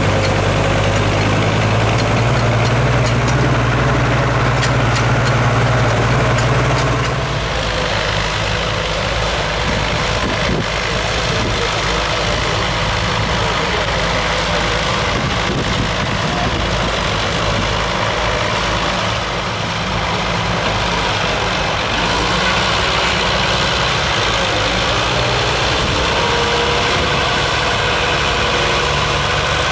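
Engine running steadily at low revs, with a low hum that changes to a rougher sound about seven seconds in.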